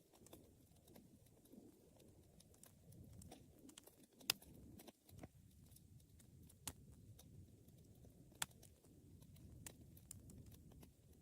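Wood fire in a fireplace burning softly, with a low rumble of the flames and scattered crackles and sharp pops, the loudest about four, seven and eight and a half seconds in.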